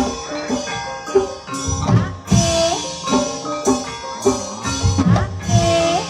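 Javanese ebeg (kuda kepang) dance music: hand drums beating with struck mallet instruments ringing out steady notes, and a held note that bends upward recurring about every three seconds.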